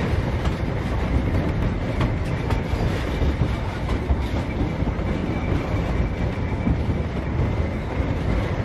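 Narrow-gauge train running along the line: a steady rumble of wheels on rail, with a few faint clicks.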